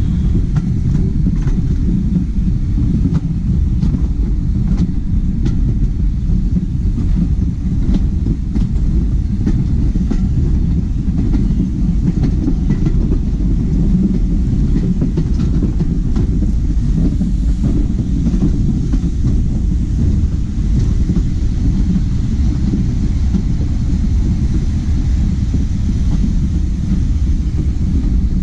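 Heritage railway passenger coach rolling along the track: a steady low rumble with occasional faint clicks of the wheels over rail joints.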